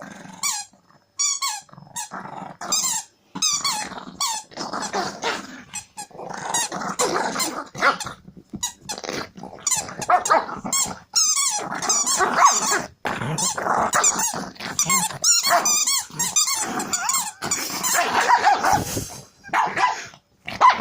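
Pekingese dog growling and barking in wild play, in irregular bursts mixed with high-pitched squeaks.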